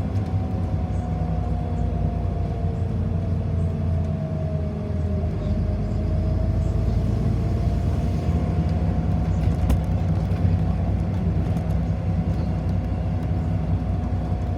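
Cabin noise inside a moving city bus: a steady low drone with a thin whine above it that dips slightly about five seconds in and then rises again.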